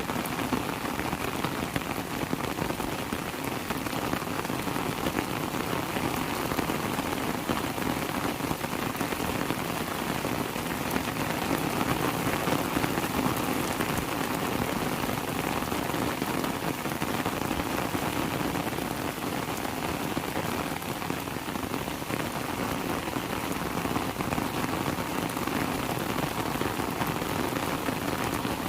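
Heavy rain falling steadily: a dense, even patter of drops on surfaces.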